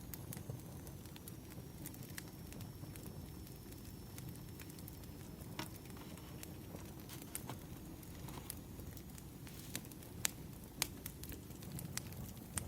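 Firewood burning in a fire, crackling steadily over a low rumble, with sharp pops at irregular moments, the loudest a few near the end.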